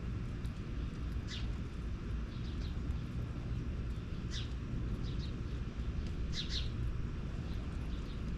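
Small songbird chirping: short, steeply falling notes, single or in quick pairs, about five times over several seconds, above a steady low rumble.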